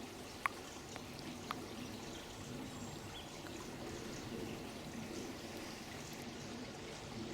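Water running steadily, like a stream or trickle, with two sharp clicks about a second apart near the start.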